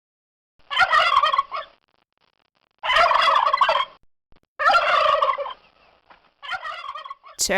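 Turkey gobbling: four separate rapid, warbling gobbles about a second each.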